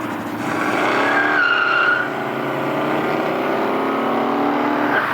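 A car accelerating hard, engine revving up, with a brief tire squeal about a second and a half in; the engine then holds high revs as it pulls away.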